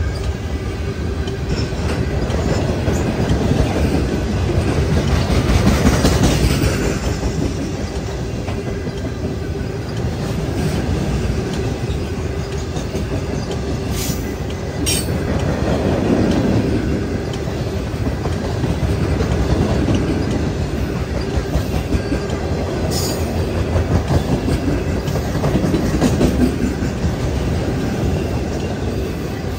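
Loaded ballast cars of a freight train rolling past close by: steel wheels clicking over rail joints over a continuous heavy rumble, with a few brief sharp noises along the way.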